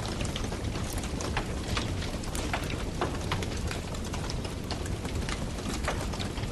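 Campfire crackling: wood burning with frequent sharp, irregular pops and snaps over a steady low rumble.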